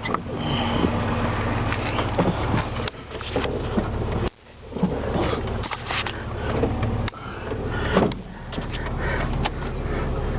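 Jeep Wrangler's 4.0-litre inline-six idling steadily, with scattered clicks and knocks of handling. The sound drops out abruptly a few times.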